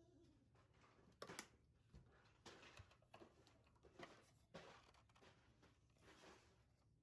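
Near silence: quiet room tone with a few faint, scattered rustles and clicks.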